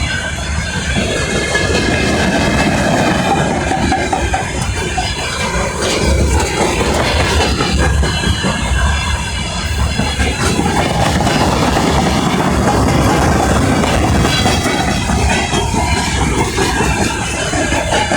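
Freight train rolling past: a loud, steady rumble of wheels on rails, with high ringing squeal tones from the wheels.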